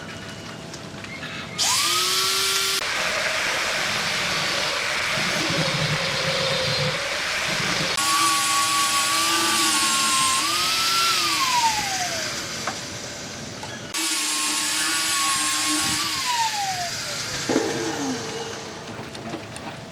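Electric power tool running at high speed while working wood, with a steady motor whine over the cutting noise. The whine comes up about two seconds in, and twice falls away as the tool is switched off and spins down.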